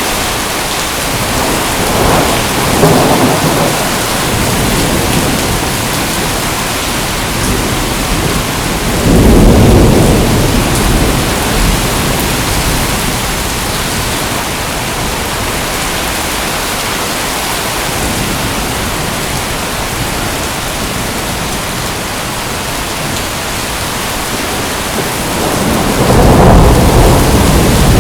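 Steady heavy rain, with thunder rumbling low three times: a couple of seconds in, around ten seconds in, and again near the end.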